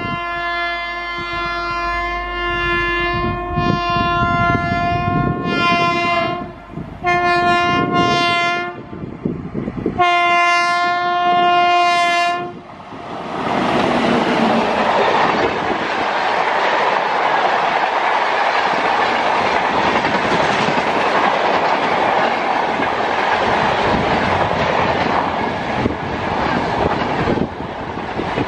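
Indian Railways electric locomotive sounding its horn three times as it approaches at speed: a long blast of about six seconds, then two shorter ones. It then passes close by with its coaches, a loud steady rush and clatter of wheels on rails.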